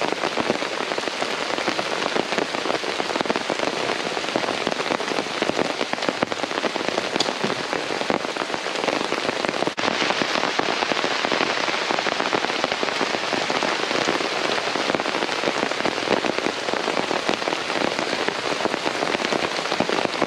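Steady rain: a dense, continuous patter of drops striking surfaces.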